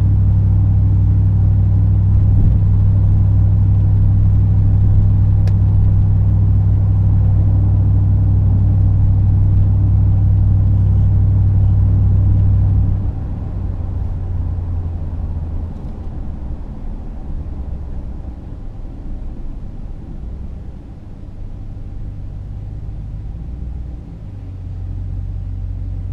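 Exhaust drone of a Ram 2500's 6.4 Hemi V8 through a Magnaflow 19200 cat-back exhaust while driving: a steady low drone that drops suddenly in level about halfway through, then runs quieter and more uneven, swelling a little near the end.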